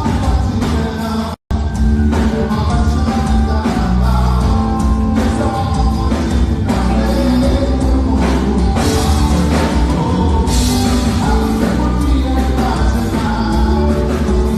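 Brega band playing amplified with a singer, heavy bass and drums under guitar and vocals. The sound drops out completely for a split second about a second and a half in, then the music carries on.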